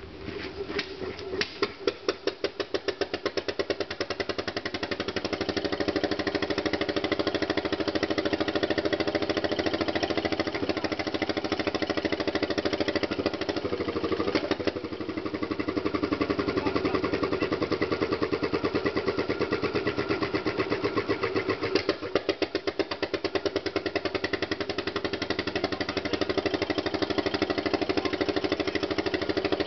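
Deutz MA 611 single-cylinder diesel stationary engine firing up on its first start after 35 years: a few uneven first strokes, then a steady knocking beat that quickens as it settles into running. It stumbles briefly twice, about halfway through and again a little later.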